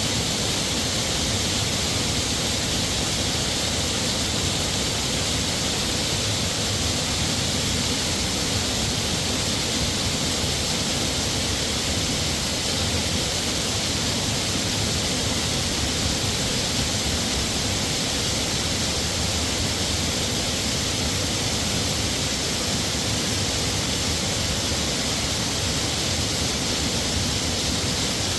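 Heavy waterfall pouring steadily: an even, unbroken rush of water with a low rumble underneath.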